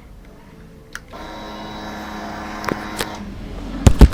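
Naza Blade 250R motorcycle being started: a click about a second in, a steady hum for about two seconds, then two loud thumps near the end.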